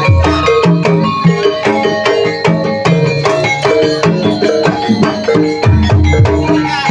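Javanese ebeg (jaranan) accompaniment music: a steady rhythmic pattern of struck tuned keys with deep hand-drum strokes falling on the beat, the heaviest drum hits near the start and about a second before the end.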